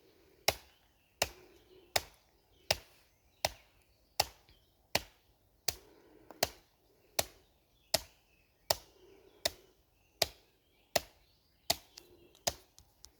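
Hand conditioning by ridge-hand strikes against a hard surface: sharp single impacts at a steady pace, a little more than one a second.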